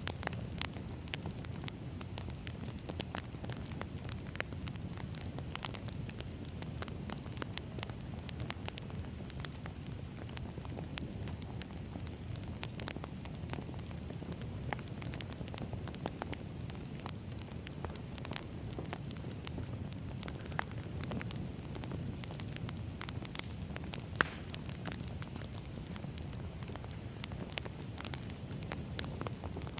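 Wood fire burning: a constant crackle of small pops and snaps over a low steady rumble, with one sharper, louder pop about 24 seconds in.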